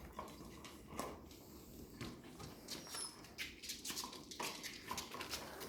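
Faint squeaks and short whines from Labrador puppies, among many small clicks and scrabbling sounds.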